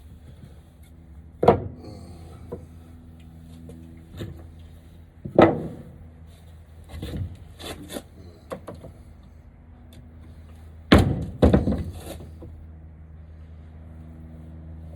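Lumber for a frame being handled and knocked together: a series of loud wooden thunks and clatters, the biggest about a second and a half in, around five seconds in, and a close pair of them around eleven seconds.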